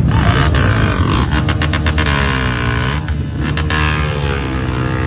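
Motor vehicle engine running, its pitch dipping and rising, with a string of sharp rattling knocks about a second in and again around three and a half seconds.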